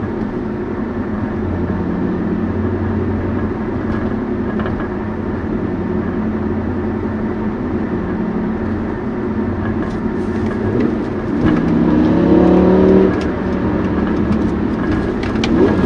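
BMW E60 M5's V10 engine heard from inside the cabin with the windows up: it runs steadily at low revs, then about eleven seconds in it is put under acceleration and its pitch rises and it gets louder for a couple of seconds before dropping back, with another short rise near the end.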